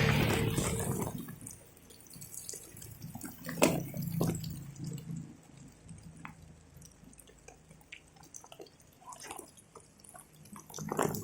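Water dripping in scattered, irregular drops over a faint low hum, while a passing vehicle dies away in the first second or two.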